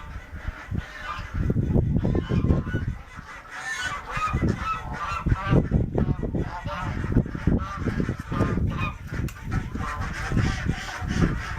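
Domestic geese honking over and over, many short calls overlapping, with a low rumbling noise underneath.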